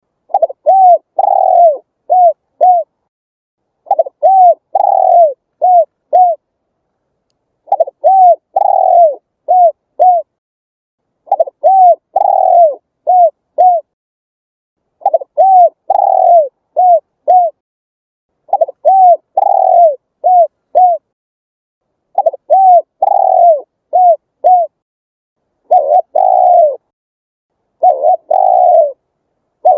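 Spotted dove cooing its song over and over. Each phrase has about five coos: a coo, a longer drawn-out one, then a few short quick ones. A new phrase starts about every three and a half seconds, with silence between.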